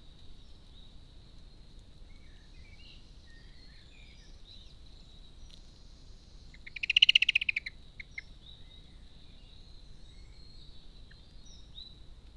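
A bird's rapid rattling call, about a second long, a little past halfway through and the loudest sound here. Around it, faint scattered bird chirps over a steady high-pitched whine.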